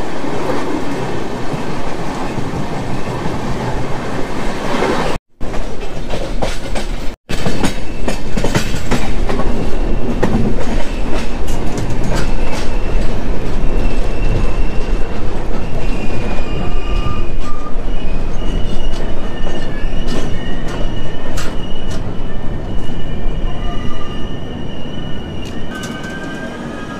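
Passenger express train running on the rails with a steady rumble and wheel clatter, broken by two brief silent cuts. From about halfway through, thin high-pitched metal-on-metal squeals come and go, and the noise eases near the end.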